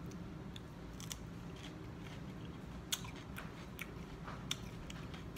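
Chewing raw cucumber close to the microphone: scattered crisp crunches and wet mouth clicks, the sharpest about three seconds in.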